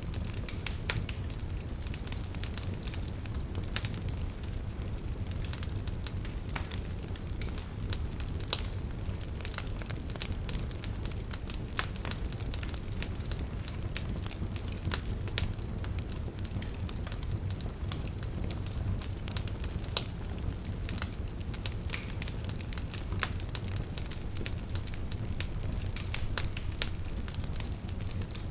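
Wood fire burning in a fireplace: a steady low rumble of flames with constant irregular crackles and sharp pops, a few louder snaps standing out.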